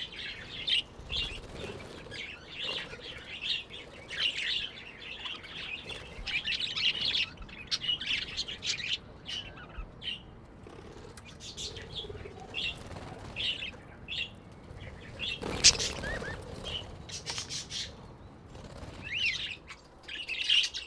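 Aviary finches chirping in short, high notes throughout, with the flutter of wings. There is a louder, brief flurry about fifteen seconds in.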